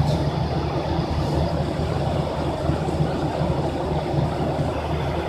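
Steady drone of an airliner cabin in flight: engine hum and rushing air, with a low hum under an even noise.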